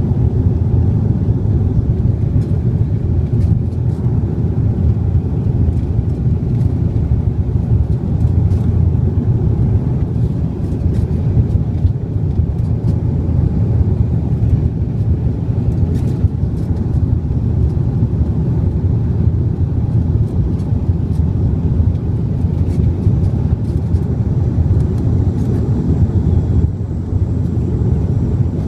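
Steady low rumble of an airliner's engines and rushing air, heard from inside the passenger cabin during landing.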